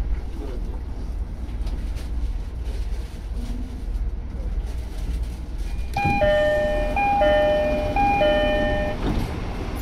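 Low, steady rumble of the diesel railcar. About six seconds in, a two-tone electronic chime sounds three times, each a high note falling to a lower one.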